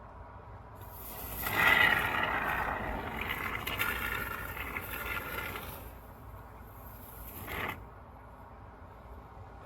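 Aerosol can of expanding foam dispensing while held upside down: a hissing spray starts about a second in, eases off, then gives a short last spurt before cutting off sharply.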